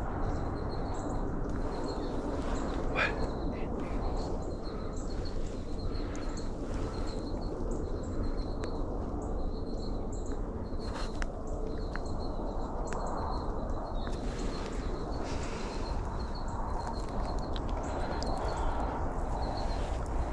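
A small bird chirping, short high notes repeated about twice a second, over a steady low rumble and a few faint clicks and rustles.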